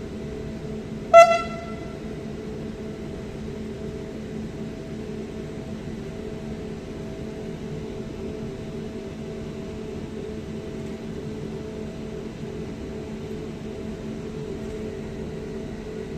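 A locomotive horn gives one short, loud toot about a second in, over a steady machine hum with a few held tones.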